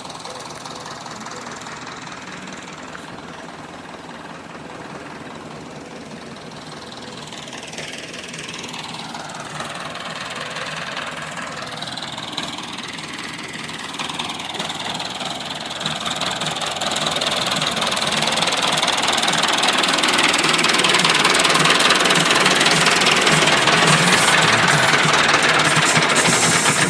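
Massey Ferguson 275 tractor's diesel engine running under load while pulling a rotary tiller, growing steadily louder as it comes closer over the second half.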